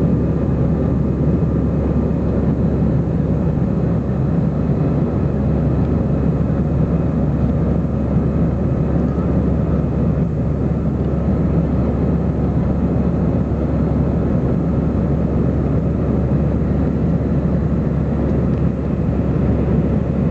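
Airbus A320 cabin noise heard from a window seat: the jet engines and airflow give a steady, even drone with a faint constant hum, with no sudden events.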